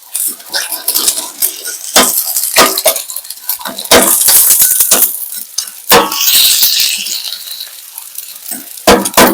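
Food frying and sizzling in a pan, with repeated sharp clicks and scrapes of a utensil against the pan as it is stirred. The sizzle swells about four seconds in and fades again a few seconds later.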